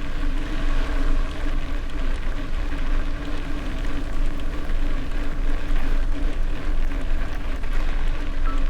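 Bicycle tyres rolling over a gravel road at speed, with wind rumbling on the microphone and a steady hum underneath.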